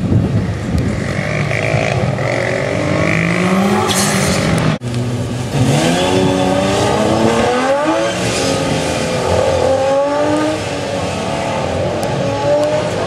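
Ferrari F40's twin-turbo V8 revving hard under acceleration. The sound breaks off abruptly about five seconds in, and another race car follows, accelerating hard, its engine pitch climbing through several gear changes.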